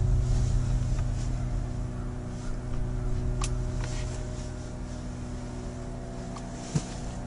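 Steady machine drone from a sawmill at the end of the lake: a low hum with a few even tones above it, slowly easing off, with a couple of light clicks.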